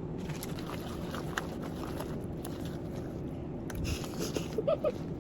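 Steady low background hum with a few light clicks and knocks scattered through it.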